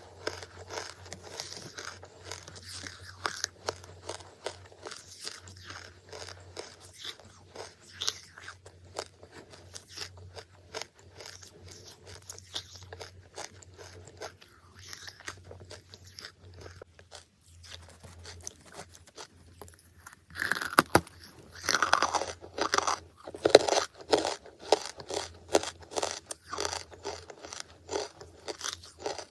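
Close-miked crunching and chewing of brittle charcoal: a dense run of sharp crunches, with a louder cluster of bites about two-thirds of the way through.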